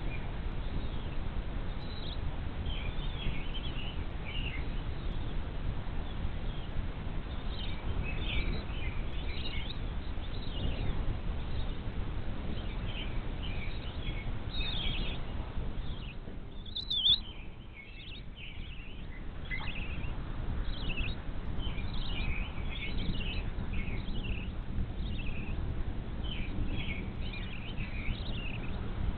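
Many short, high bird chirps over a steady low background rumble, with one louder sharp note a little past halfway.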